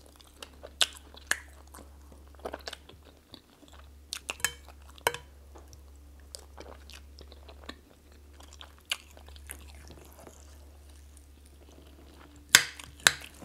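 Close-up chewing of soft chicken and plantain in pepper soup, with scattered sharp clicks and a louder cluster of clicks near the end.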